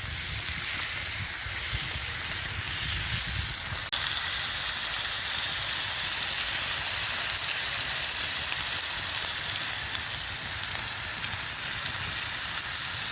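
Bacon, onion and potatoes sizzling steadily as they fry over a campfire.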